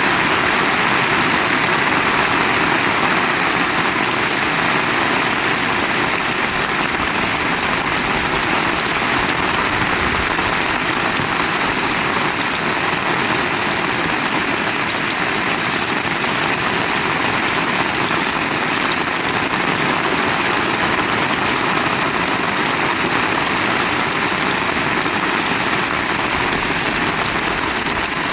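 Heavy rain falling steadily, a dense even hiss of drops that does not let up.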